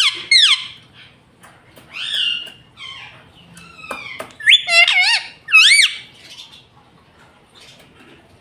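Ring-necked parakeet calling: a string of short squawky calls, each sliding up and down in pitch, loudest near the start and again between about four and six seconds in.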